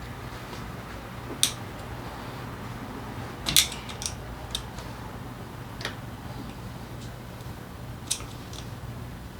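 Sharp metallic clicks and clinks of hand tools and engine parts being handled during engine disassembly, about six separate strikes; the loudest comes about three and a half seconds in. A low steady hum runs underneath.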